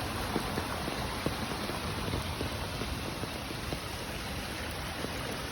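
Stream water flowing and babbling steadily, with small splashing ticks.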